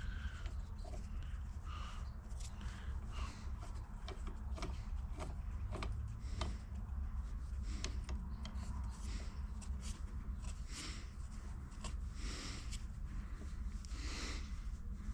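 Scattered light clicks and knocks of pipe fittings and tools being handled, over a steady low hum.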